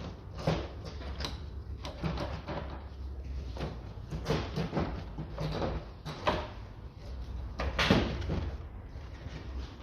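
Irregular plastic knocks, clicks and scraping as the air filter housing and its intake tube are pushed and worked into place in the engine bay, with two sharper knocks, one about half a second in and one near the end.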